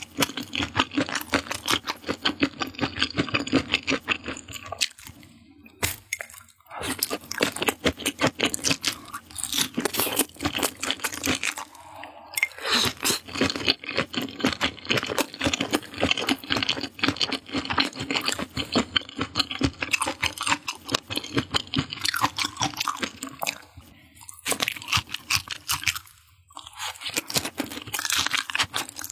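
Close-miked crunching and chewing of fried skewered food, many crisp crunches a second with a few short pauses between bites.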